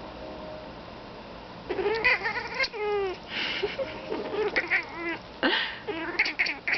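Turkish Angora cat vocalising at crows: a quick run of short meows and chattering calls, rising and falling in pitch, starting about two seconds in.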